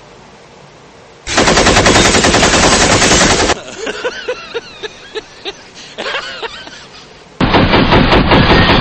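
Machine-gun fire played as a wake-up alarm, in two loud bursts of rapid shots: one starting about a second in and lasting about two seconds, and another starting near the end. Between the bursts there is a quieter stretch with a wavering, rising-and-falling sound and sharp pops.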